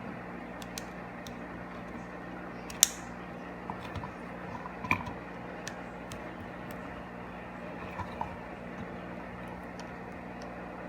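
Scattered light clicks and taps from small parts being handled, with one sharp click about three seconds in, over a steady low hum.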